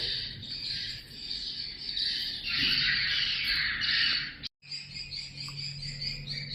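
Swiftlet calls: a dense, fast, high-pitched twittering. The sound drops out for a moment about four and a half seconds in, and a low steady hum joins after it.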